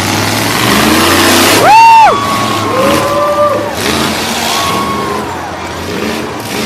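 Monster truck engines running loudly with a low steady rumble. About two seconds in, a short, piercing horn-like blast rises, holds and drops off, and steadier pitched tones come and go around it.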